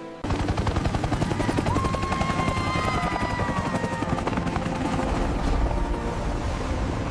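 Helicopter rotor chop, a rapid, steady beat that cuts in suddenly, with a faint whine gliding slowly downward partway through.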